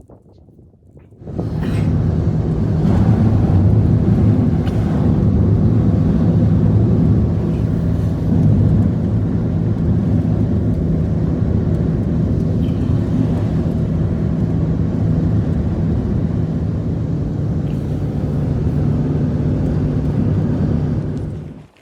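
An engine running steadily, starting abruptly about a second in and cutting off just before the end.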